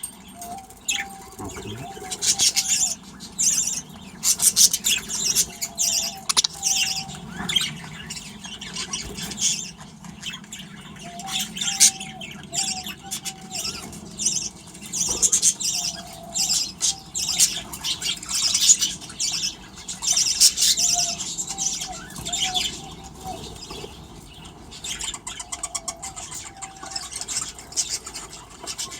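Aviary of budgerigars chattering and squawking non-stop in busy high bursts, with a short run of a few lower notes recurring every few seconds.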